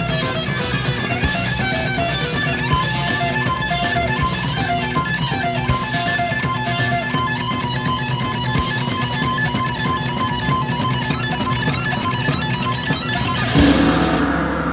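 Hard rock music with electric guitar over bass and drums, with a sharp high crash every second or two. Near the end a single loud final hit rings on and starts to fade.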